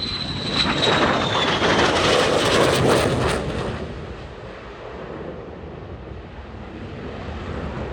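F-22 Raptor fighter jet passing overhead. Its roar swells to a peak over about three seconds, with a high whine that drops in pitch as it goes by, then fades to a lower rumble.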